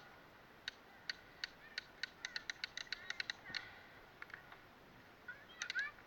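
Faint bird calls: an irregular run of short, sharp chips, with a couple of brief chirps near the end.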